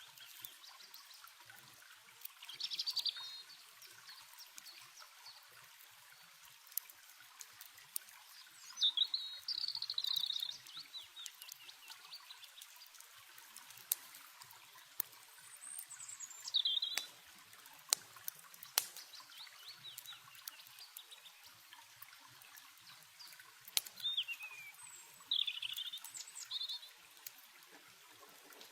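Songbird chirping in four short bursts of high, sliding notes over the steady trickle of running water, with scattered sharp crackles from a campfire.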